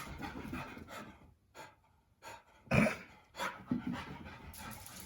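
A dog panting in short, irregular breaths, the loudest about three seconds in.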